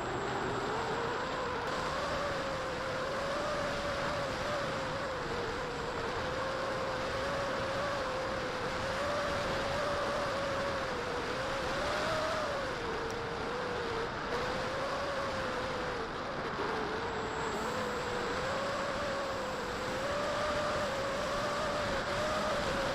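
Radio-controlled Cessna Skyline model plane flying, its electric motor and propeller giving a steady whine that wavers up and down in pitch as it flies about, over a steady hiss.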